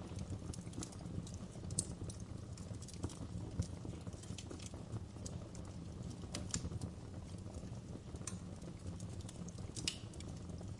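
Wood fire burning in a fireplace: a steady low rumble of flames with irregular sharp crackles and pops, a few louder ones about two, six and a half and ten seconds in.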